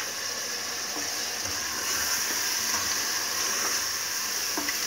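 Goat meat and ground spices frying in oil in a steel pot: a steady sizzle that grows a little louder about two seconds in. A wooden spoon stirs and lightly knocks against the pot a few times as the masala is roasted.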